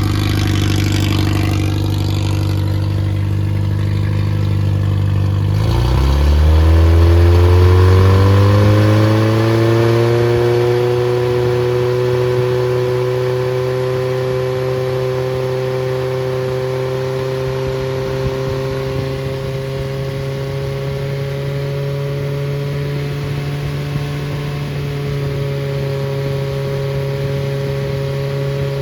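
Freshly rebuilt Triumph Spitfire 1300 inline four-cylinder engine running loudly. About five seconds in it is speeded up quickly, rising in pitch, and then holds at a higher steady speed that creeps up slightly.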